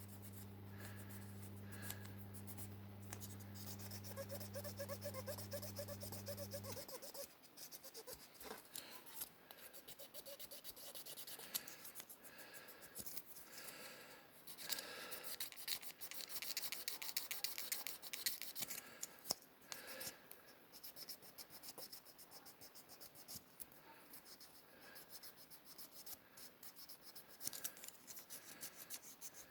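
Faint scratchy rubbing of a thin clear plastic car window being polished by hand with quick side-to-side strokes, smoothing out surface scratches. A steady low hum runs underneath for the first few seconds and then stops.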